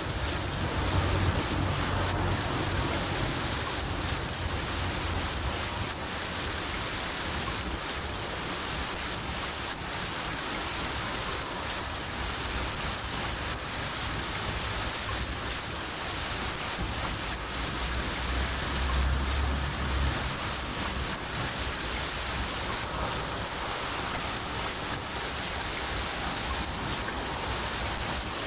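A cricket chirping steadily, about three even chirps a second, over a steady patter of rain, with low thunder rumbling faintly twice.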